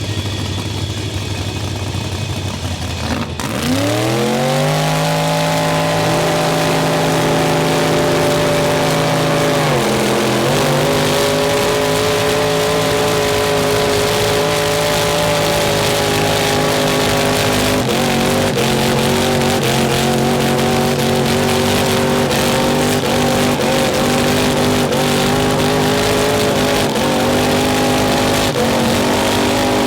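A mud truck's engine revs up about three seconds in and is held at high revs, sagging briefly once before climbing back and holding steady with small wavers.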